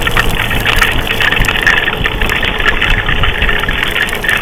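Motorcycle engine running under a steady rush of wind and rain noise with many small ticks, as the bike slows to pull over in a downpour.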